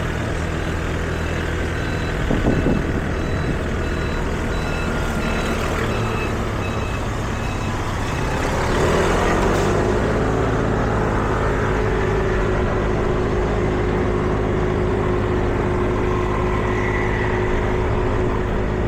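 City street traffic: motor vehicle engines running close by, with a run of short, evenly spaced electronic beeps during the first several seconds. About nine seconds in, a vehicle gets louder, and a steady engine tone carries on after it.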